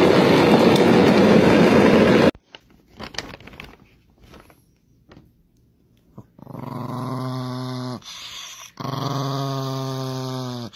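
A loud steady noise cuts off about two seconds in; after a few faint clicks, a small chihuahua-type dog growls twice, two long even growls of about two seconds each, at a lettuce leaf held out to it.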